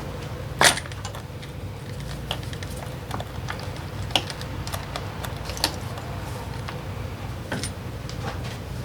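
Scattered metallic clicks and clinks of hand tools on metal parts while the Honda PCX 125's engine is being removed, with one sharper click near the start, over a steady low hum.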